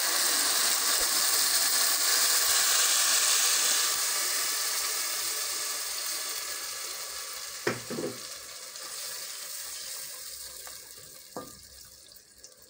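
Blended tomatoes poured into hot oil and fried onions in a pot, sizzling loudly at first and dying down steadily over several seconds. Two short, sharp knocks come about halfway through and near the end.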